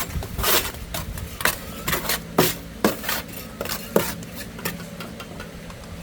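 Irregular sharp metallic clinks and taps, about a dozen, some with a short ring, over a steady low hum.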